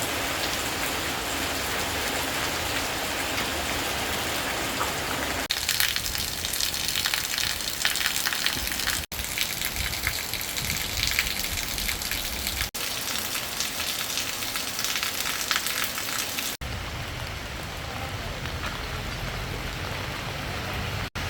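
Rain falling steadily, in several short shots cut together; in the middle shots it lands as many sharp drops on a hard surface.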